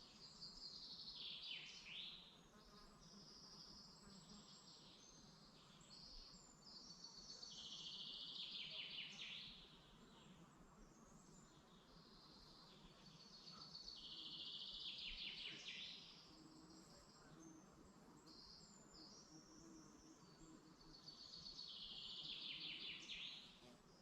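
Faint songbird singing the same phrase four times, each a fast trill falling in pitch over about two seconds, with other small chirps between.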